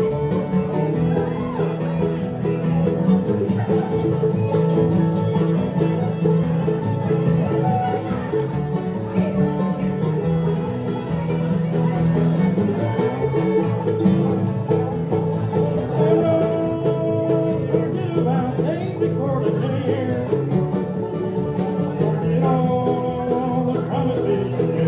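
Bluegrass band playing live, with banjo and guitar to the fore.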